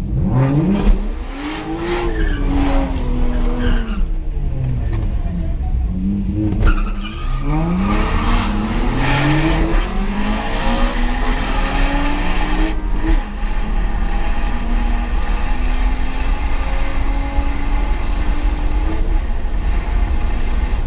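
BMW 135i's turbocharged straight-six heard from inside the cabin on a drag run: the revs rise and fall over the first few seconds, then it pulls hard through the gears in several rising sweeps, each cut by a shift, before settling into a steadier, slowly falling drone for the last third.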